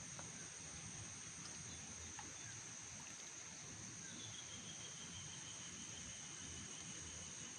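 Insects chirring steadily at a high pitch, with a second, lower insect tone joining about four seconds in.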